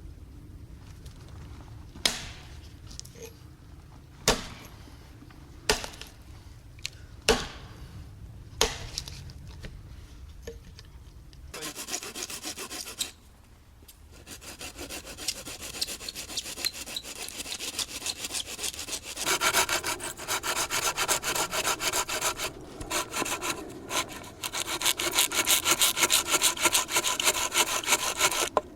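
A few sharp knocks, about one every second and a half, then from about twelve seconds in a hand saw cutting wood with quick, steady back-and-forth strokes, which get louder in the last third.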